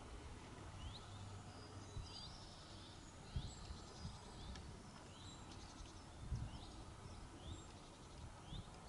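Faint bird calls: short upward-sweeping chirps repeated about once a second, over a low outdoor rumble with a few dull thumps.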